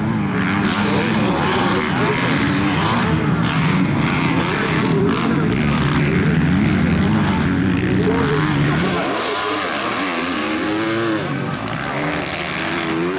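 Motocross bikes racing, several engines revving up and down over one another.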